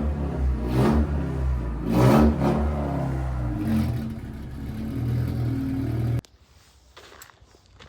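Car engine running and revving in short swells in the snow. It cuts off abruptly about six seconds in, leaving faint scattered steps.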